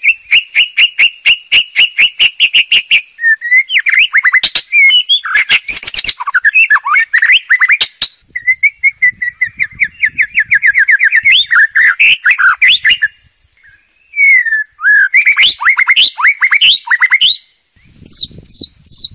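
White-rumped shama singing a loud, varied song: fast runs of rapidly repeated notes and swooping whistles in phrases, with short breaks about two-thirds of the way in and again near the end.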